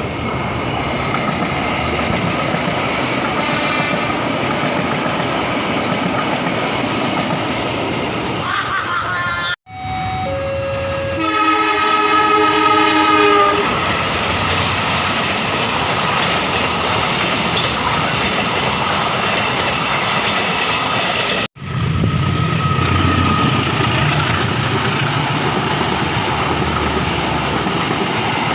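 Trains passing close by: a steady rumble of the train running and carriages rolling on the rails. About a third of the way in, a multi-note train horn sounds for roughly three seconds. The sound cuts out abruptly twice.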